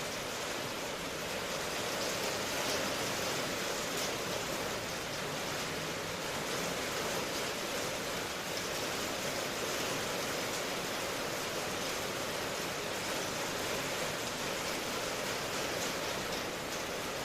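Steady rainfall, an even hiss with no change in level and no thunder.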